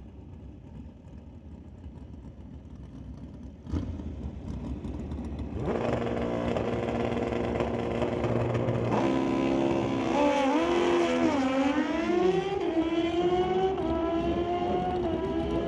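Drag-racing motorcycle engines running at the strip, revving up and down, with the pitch climbing in steps near the end. A single knock sounds about four seconds in.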